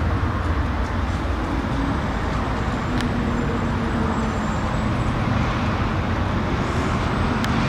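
Steady low rumble and hiss of road vehicle noise, with a faint click about three seconds in and another near the end.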